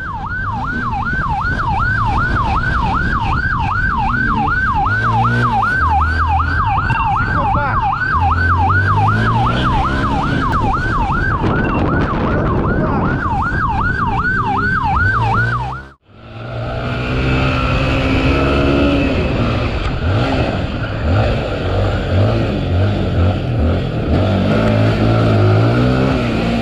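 Police siren on a yelp setting, sweeping up and down about two and a half times a second over vehicle engine noise. It cuts off suddenly about sixteen seconds in, leaving engine and road noise.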